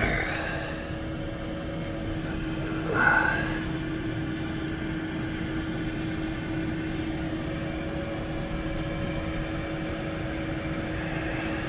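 Diesel air heater running in its start-up phase, a steady hum of its combustion fan with a low rumble, the glow plug cycle just finishing as it begins blowing warm air. A short higher-pitched sound rises and falls about three seconds in.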